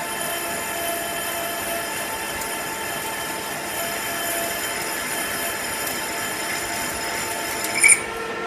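Metal lathe taking a light turning pass on a 1018 cold-rolled steel part: a steady mechanical whine with high metallic ringing tones from the cutting tool on the spinning steel. Near the end a brief louder squeal sounds and the high tones cut off.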